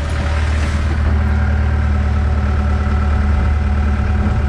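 Yanmar Vio70 excavator's diesel engine running steadily under hydraulic load while the track drive turns to run the old track off.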